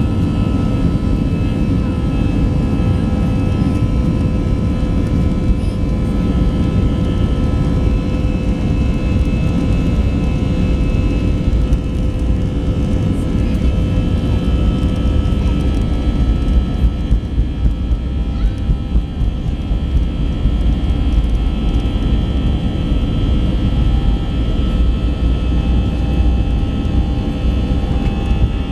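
Airbus A320 jet engines running steadily with a heavy low rumble, heard from inside the passenger cabin. A little past the middle, a run of regular bumps comes about twice a second.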